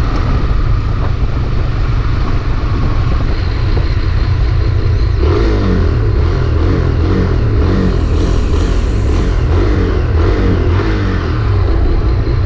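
Honda CB300R single-cylinder motorcycle engine running under heavy low wind rumble; from about five seconds in its note rises and falls over and over. The owner says the bike has started making a strange noise and jerks while running.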